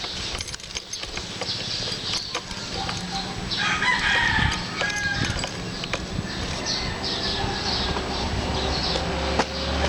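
A rooster crowing once, about four seconds in, over a steady low rumble.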